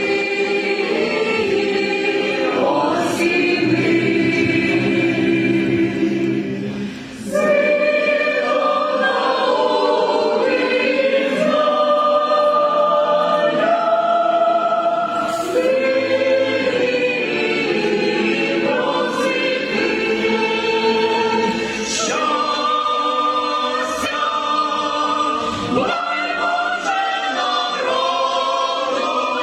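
A choir singing in several voices, holding sustained chords that shift from phrase to phrase, with a short pause for breath about seven seconds in.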